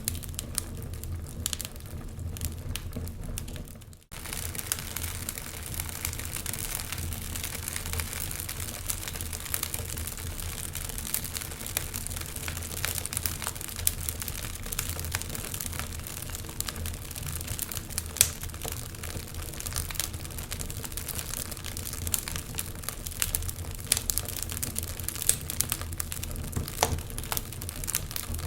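Wood fire crackling, with irregular sharp pops and snaps over a steady low hiss and hum, and a brief cut-out about four seconds in.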